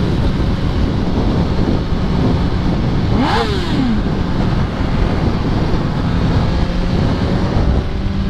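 2005 Yamaha R1's inline-four engine running steadily under wind noise on the microphone. About three seconds in, a quick throttle blip makes the pitch rise and fall within a second.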